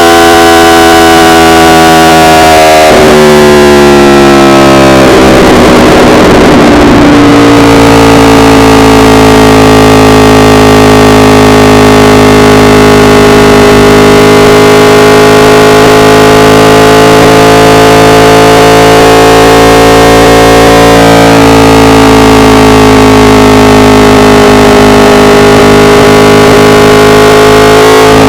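Yamaha R1 inline-four engine under way, its note stepping down twice in the first few seconds and then holding a steady cruising pitch with slight drift. Recorded at full level, so the engine sound is heavily distorted.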